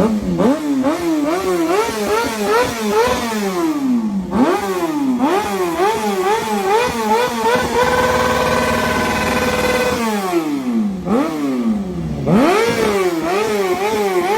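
Suzuki GSX-R motorcycle engine revved in quick repeated blips, the pitch jumping up and falling back about twice a second. About eight seconds in it is held high and steady for a couple of seconds, then drops and the blipping resumes.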